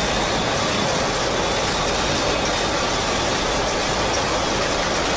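Steady engine noise under an even hissing rush, holding level without change.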